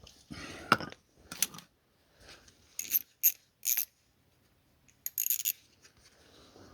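A brief hiss from a spray can of thin oil, then scattered sharp metallic clicks and clinks of a hand tool on the wheel-arch nut as it is worked loose.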